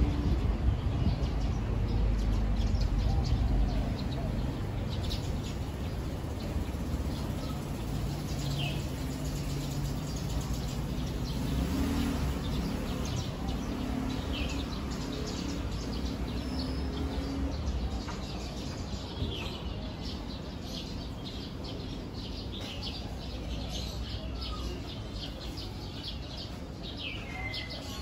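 Songbirds chirping and calling: many short, high chirps with a few sweeping calls scattered through. Beneath them runs a low steady background rumble that is louder for the first few seconds.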